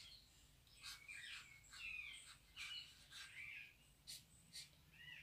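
Faint bird chirps: many short calls and sliding notes, some quick and high. A few light ticks from a pen writing on a paper page come in between.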